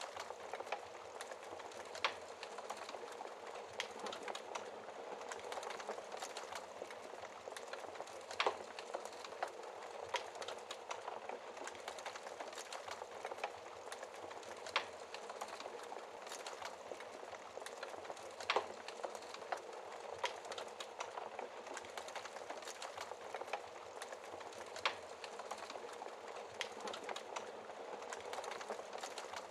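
Wood fire crackling steadily in a fireplace, with a sharp louder pop every few seconds.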